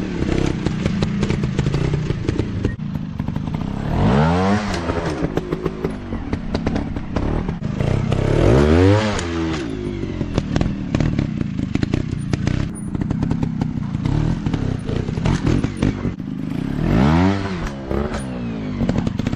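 Dirt bike engines running, with three surges where the engine pitch rises and falls, about four, nine and seventeen seconds in, amid frequent clatter and knocks.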